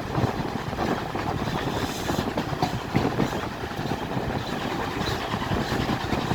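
Steam-hauled passenger train running along the track, heard from aboard: a steady rumble from the wheels and carriage with many small irregular knocks and rattles.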